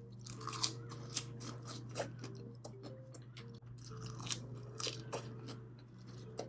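Close-miked chewing and biting: a run of sharp, wet crunches and mouth clicks, loudest about half a second, one, two and four to five seconds in. Soft background music plays underneath.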